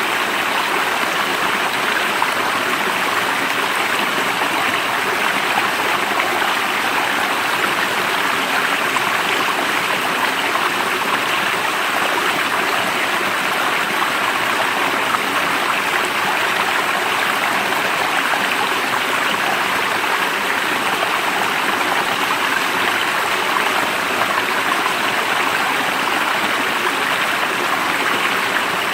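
Running water flowing steadily, an even rushing noise with no change.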